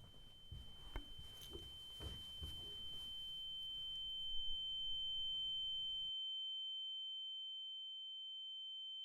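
A steady high-pitched electronic sine tone that grows louder, with a fainter lower tone joining partway through. Soft low thumps and background noise run underneath and then cut out suddenly, leaving only the pure ringing tone.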